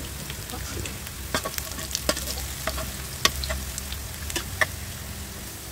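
Sliced shallots and garlic sizzling in hot oil in a non-stick wok while a metal spoon stirs them, clicking and scraping against the pan now and then.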